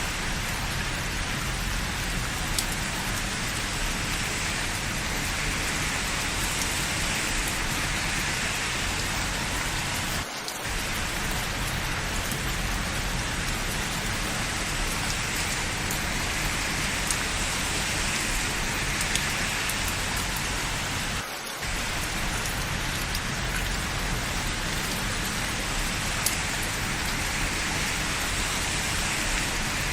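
Steady rain falling, a dense even hiss with now and then a sharp drip tick. The sound drops out for a moment twice, about a third and two thirds of the way through.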